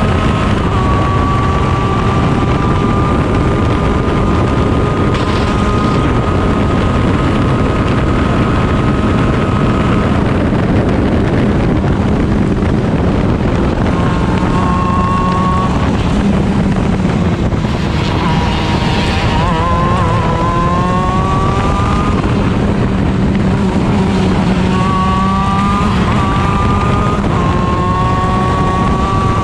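Stock Honda 125 cc two-stroke engine of a CIK shifter kart at race speed, heard onboard. Its note climbs and steps down at each gear change. Around the middle it drops low and wavers, then climbs again through the gears.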